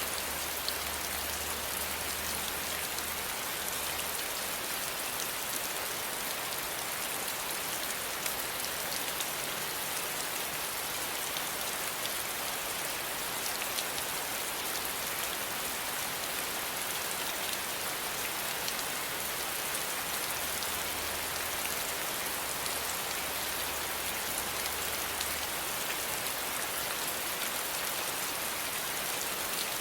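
Steady rain falling, an even hiss of many drops pattering on a surface, with a faint low hum coming and going underneath.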